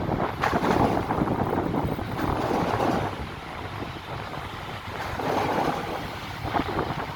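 Wind buffeting the microphone in gusts over a steady background of vehicle noise.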